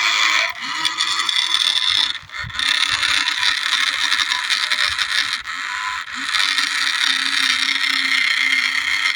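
Remote-control New Holland toy tractor's electric drive motor and gears whining as it drives over loose dirt, the pitch rising and falling with the throttle. It eases off briefly about two seconds in and again around six seconds.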